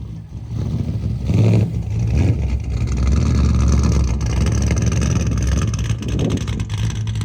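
A vehicle engine running loudly with a low note, revved up briefly about a second in and again near the end.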